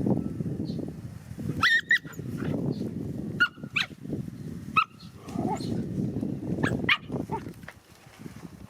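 A dog giving several short, high yips scattered over a low, rough rumbling noise.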